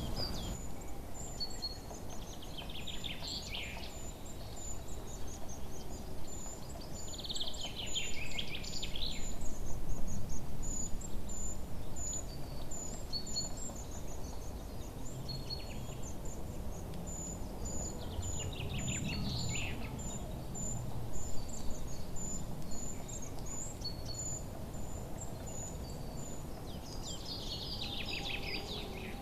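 Songbirds chirping: a steady series of very high, thin chirps, with a louder descending trilled song phrase every several seconds. Underneath is a low, steady background rumble that swells briefly about a third of the way in.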